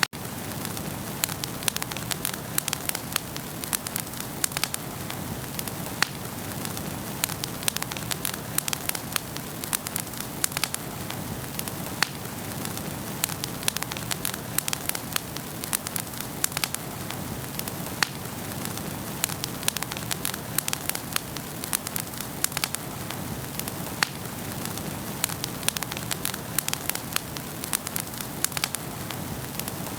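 Wood fire burning in a fireplace: a steady low rush with frequent sharp crackles and pops.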